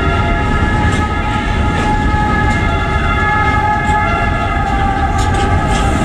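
Freight train of intermodal wagons carrying road semi-trailers rolling past close by: a loud steady rumble of wheels on rail with several steady high ringing tones over it, and a few sharp clacks near the end.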